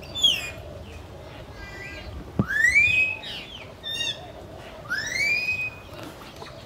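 Birds calling in a series of whistled notes: two long rising whistles, a little over two seconds in and again about five seconds in, with shorter downward-sliding notes and quick chirps between them.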